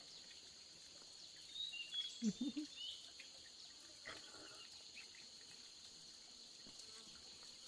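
Steady high-pitched chorus of insects, crickets or cicadas, with a few short bird chirps and a brief low grunt-like sound about two seconds in.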